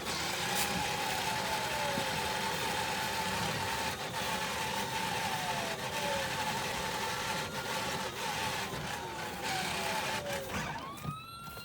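Ride-on toy fire truck's electronic siren wailing, its pitch sliding down about every four seconds over a steady driving noise, then rising into a fresh wail near the end.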